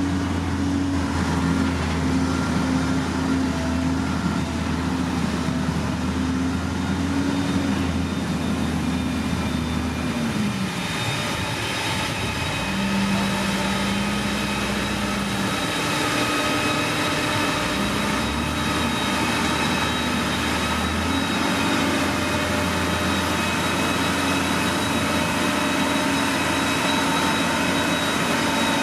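Heavy diesel earthmoving machinery running, with a steady high whine over the engine note. The engine speed drops about ten seconds in, holds lower for a few seconds, then rises back up.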